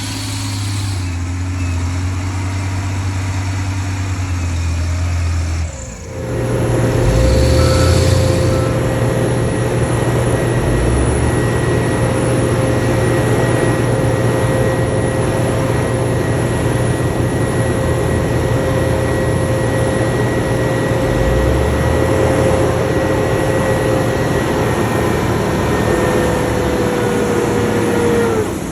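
Heavy diesel earthmoving machinery running steadily. About six seconds in the sound changes abruptly to a steadier engine note with a held whine, which sags in pitch near the end.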